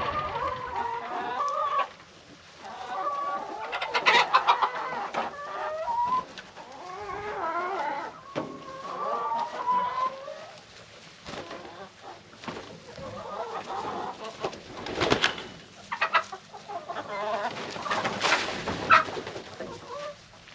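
Chickens clucking and calling over and over, with a few sharp knocks in between.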